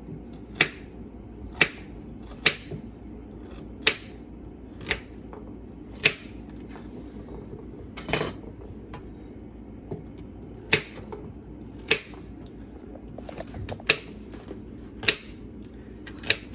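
Knife cutting through raw vegetables onto a cutting board: sharp single chops, roughly one a second at an uneven pace, over a steady low hum.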